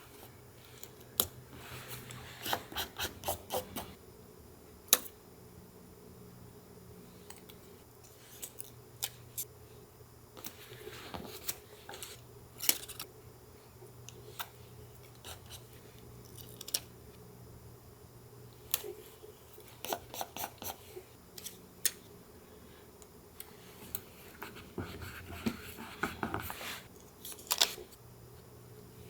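Scissors snipping through paper in quick runs of sharp cuts, with soft paper rustling between the runs.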